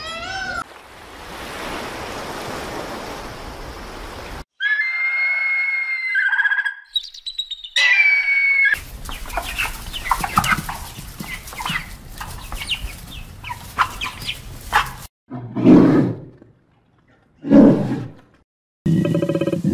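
A run of different animal sounds, cut one after another. It opens with a peacock's call, then comes a dense flock of chickens clucking and peeping, then two loud, short, low calls near the end.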